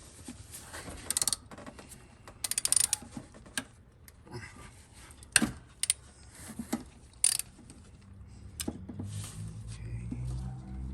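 Ratchet wrench with a 10mm socket clicking in short rapid bursts as a bolt is loosened. A few single sharp knocks fall between the bursts.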